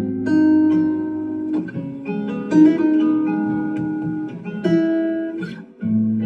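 Guitar playing a melodic instrumental passage of a song, several notes held for about a second, with a brief drop in level near the end.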